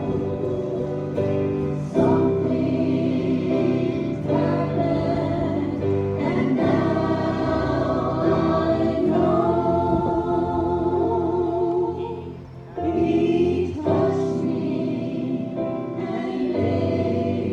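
Choir singing a gospel song, with a short break in the sound about two-thirds of the way through.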